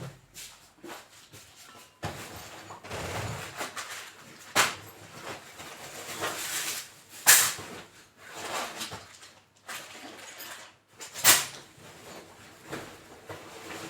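Rummaging through a drawer of tools: objects sliding, rustling and clattering, with a few sharp knocks, the loudest about 7 and 11 seconds in.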